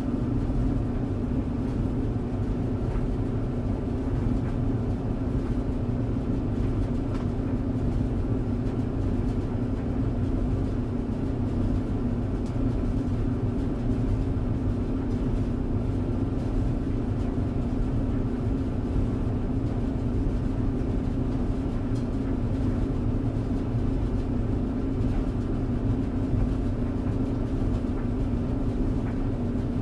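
Clothes tumble dryer running: a steady hum and low rumble from the motor and turning drum, with a few faint ticks.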